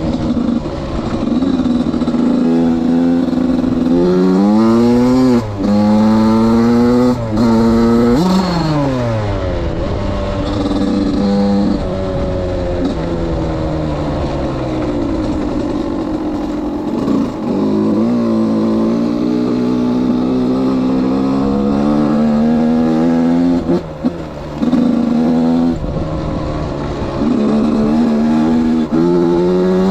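Suzuki RM85's two-stroke single-cylinder engine revving hard. Between about four and nine seconds the pitch climbs quickly several times, each climb broken by a short sudden drop. After that it runs at fairly steady revs, with a few brief throttle cuts.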